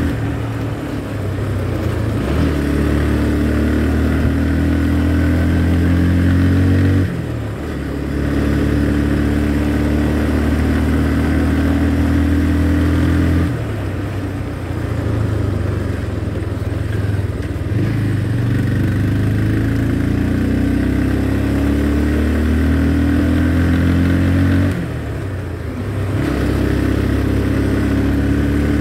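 Motorcycle engine running under way, its note climbing steadily and then falling back sharply three times as it shifts up through the gears.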